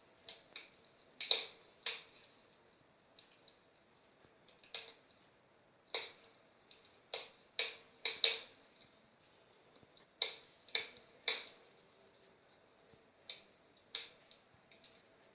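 Fire crackling in a fireplace: sharp, irregular pops and snaps, about a dozen, some coming in quick pairs, over a faint steady high whine.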